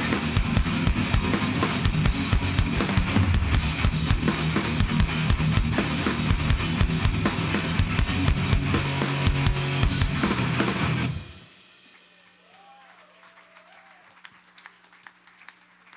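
A hardcore band playing live, with fast pounding drums and distorted guitar, cutting off about eleven seconds in. A low steady hum and faint scattered sounds remain after the cut.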